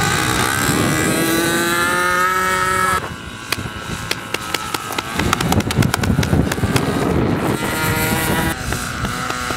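Engine of a .60-size RC model airplane running in flight, its drone rising slowly in pitch, then cutting off suddenly about three seconds in. Rough noise with many sharp ticks follows, and the engine tone comes back briefly near the end.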